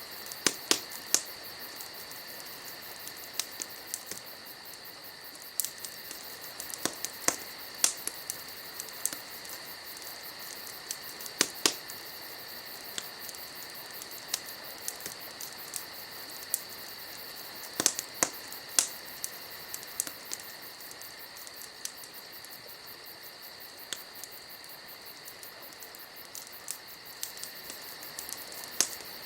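Wood fire crackling, with irregular sharp pops, some in quick clusters, over a steady chorus of crickets singing.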